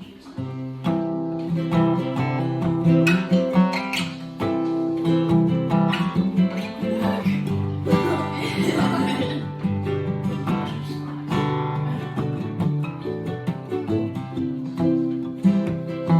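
Acoustic guitar being played, a run of strummed and picked chords, with a brighter, busier passage about halfway through.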